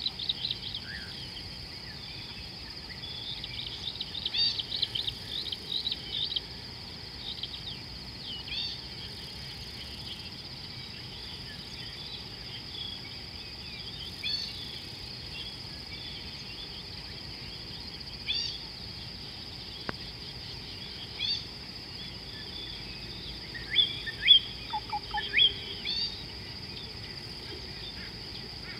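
Birds chirping and calling in short quick notes, busiest about four to six seconds in and again near the end, over a steady high insect drone.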